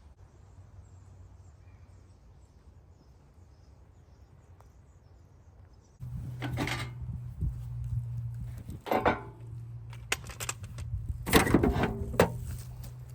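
A John Deere tractor loader's engine idling with a steady low hum, louder from about six seconds in, with repeated knocks and clattering of broken fence debris.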